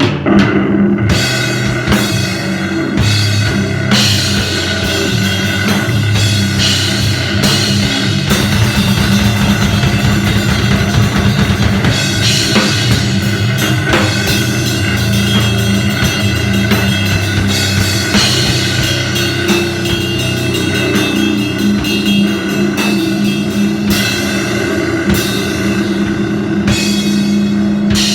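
Loud, distorted live punk band playing fast, with pounding drums, crashing cymbals and a droning electric guitar: powerviolence/grindnoise crust.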